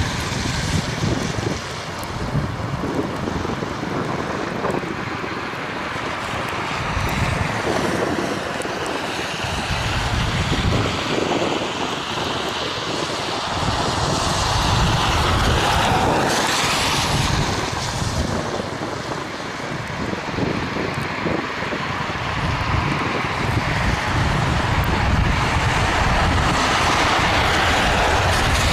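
Engine noise of something passing, swelling to its loudest about halfway through and then fading, over steady wind buffeting the microphone.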